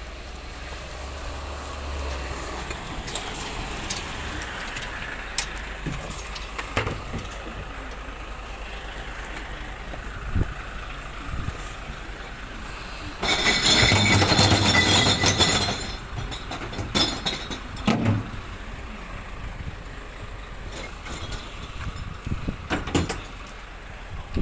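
Glass recycling truck working in the street: its engine running with scattered knocks and clatters, then a loud burst of noise lasting about three seconds about halfway through.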